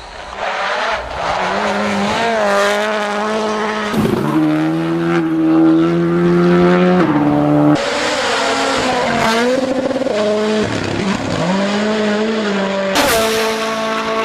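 Tuned cars accelerating hard: the engine note climbs and falls in pitch, with abrupt changes about 4, 8 and 13 seconds in.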